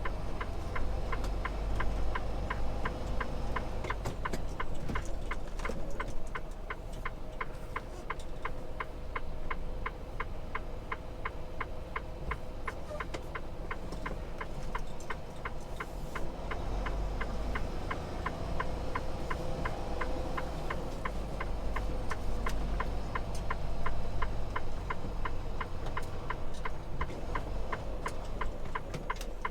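Steady ticking of a semi truck's flasher relay in the cab, about two to three clicks a second, over the low rumble of the idling truck engine.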